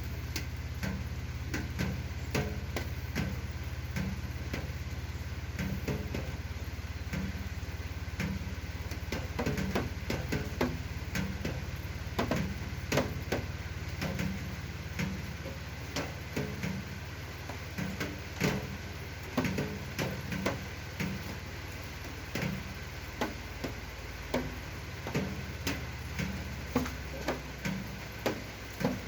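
Irregular light clicks and knocks over a steady low hum, growing more frequent and louder in the second half.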